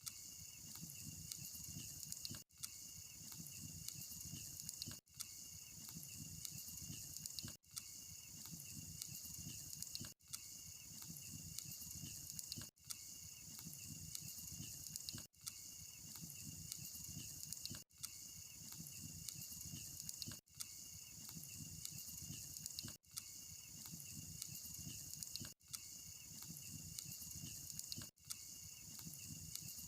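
Electric arc welding: a steady crackling hiss from the arc, with a low rumble beneath. It cuts out briefly about every two and a half seconds.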